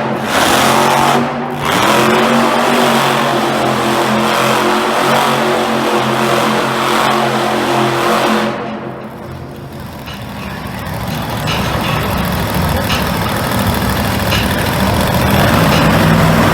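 Monster truck engine running loud and revving. It drops away about eight and a half seconds in, then builds back up.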